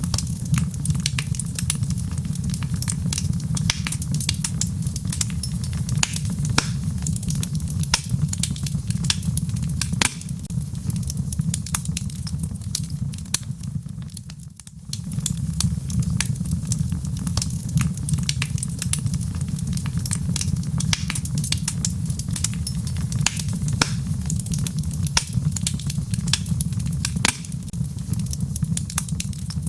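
Wood logs burning in a fireplace: dense, irregular crackling and popping over a steady low rumble of the flames. The sound dips briefly about halfway through.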